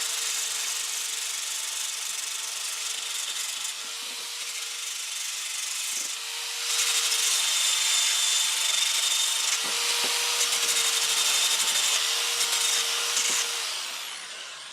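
Electric sander running with its sanding pad against a wooden adze handle, taking it down to fit the head. It runs steadily, gets louder about halfway through, and winds down near the end.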